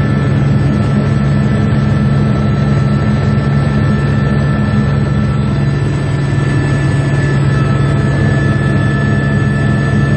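Helicopter cabin noise in flight: a steady, loud drone of engine and rotor with a steady high whine above it.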